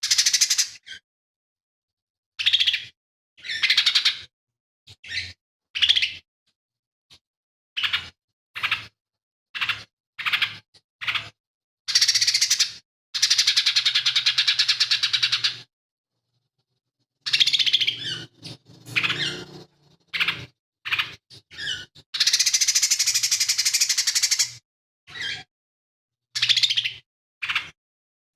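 Cucak ijo mini (lesser green leafbird) singing in short, varied high-pitched phrases, full of mimicked calls of other birds. Two long, rapid chattering trills of about three seconds each come near the middle and again later, with clean gaps of silence between the bursts.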